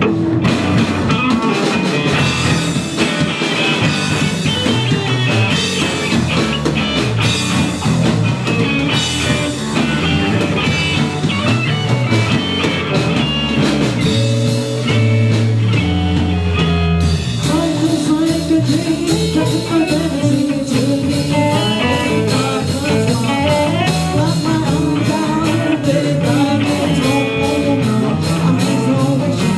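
Live rock band playing a song, with electric guitar and drums, loud and steady.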